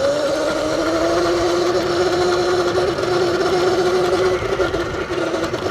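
Surron Light Bee electric dirt bike under way at a steady speed: a steady electric-motor whine that rises slightly in pitch in the first second and then holds, over a continuous rushing noise.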